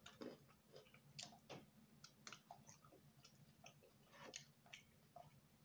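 Faint chewing and wet mouth clicks of someone eating soup and fufu, coming as irregular soft ticks over a steady low hum.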